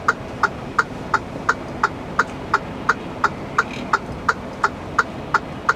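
Truck's turn-signal indicator ticking in the cab, an even click about three times a second, over the low rumble of the idling engine.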